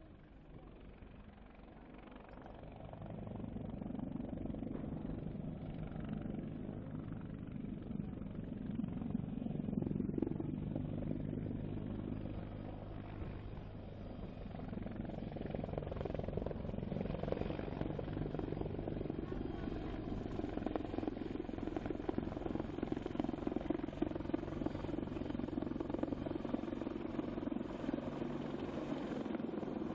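Helicopter running, a steady low hum and rotor noise that grows louder over the first few seconds and then holds.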